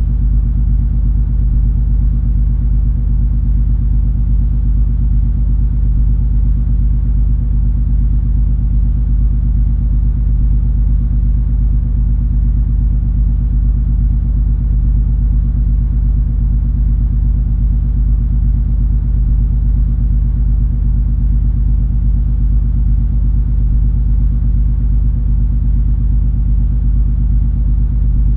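Steady low rumble of the MS Color Fantasy cruise ferry's engines and machinery while under way, with a few constant hum tones and no change in pace.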